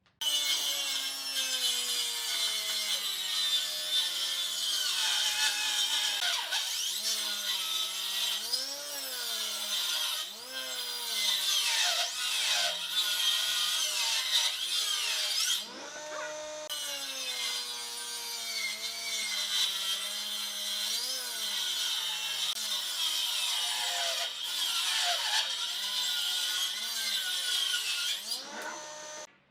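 Power tool cutting wood, its motor pitch repeatedly dipping and recovering as the cut loads it. The sound drops in level about halfway through.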